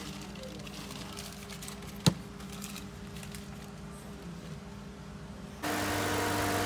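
A faint steady hum with one sharp click about two seconds in. Near the end the sound jumps abruptly to the Mitsubishi Pajero's engine idling steadily with the air conditioning switched on.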